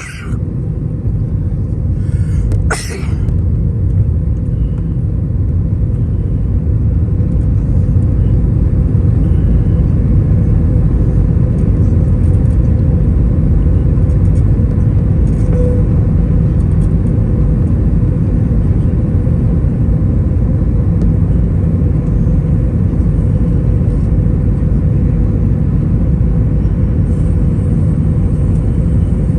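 Steady low rumble inside an Airbus A320-200's cabin in flight, with a faint steady tone above the roar. A couple of brief clicks sound in the first three seconds.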